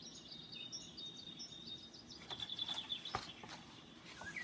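Faint high chirping and tweeting of a small bird. About halfway through, a short run of clicks and rustles as a hardcover picture book is lowered and its page turned.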